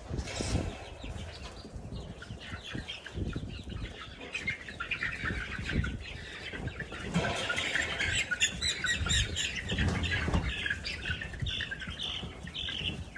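Month-old chickens chirping rapidly in many short calls, with wing flapping and scuffling, as they are caught by hand.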